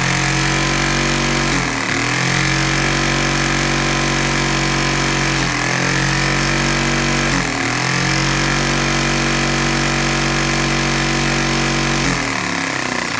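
Vacuum cleaner motor running with a steady whine over rushing air. Its pitch briefly dips and recovers about four times, and near the end the sound begins to die away.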